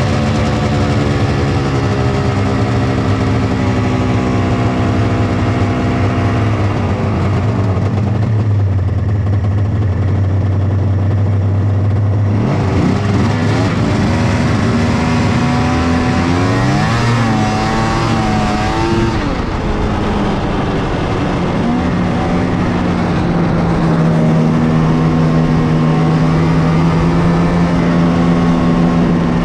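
1997 Polaris XCR 600 snowmobile's three-cylinder two-stroke engine running through its stock triple pipes. The engine note drops about seven seconds in and holds low, rises and wavers with the throttle from about thirteen to nineteen seconds, then settles to a steady, higher note.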